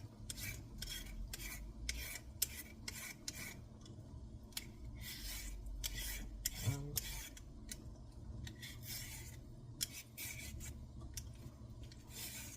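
Short rasping scrapes of a knife blade on vegetable skin, repeated irregularly about two or three times a second, as produce is scraped or peeled by hand.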